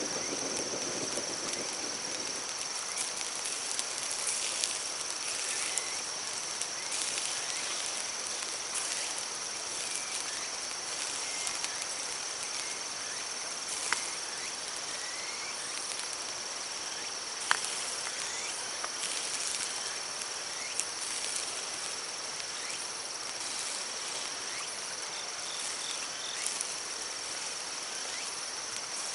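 Steady high-pitched insect drone over the even rush of a mountain stream, with a few faint chirps and two sharp clicks about halfway through.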